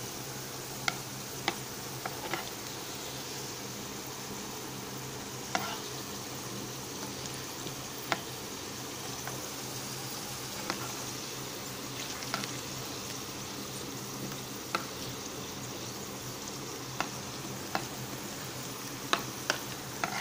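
Potato chunks frying in hot oil in a small electric fry pan, making a steady sizzle. Every second or two there is a sharp click as a metal spoon stirs the pieces and knocks against the pan. A low steady hum runs underneath.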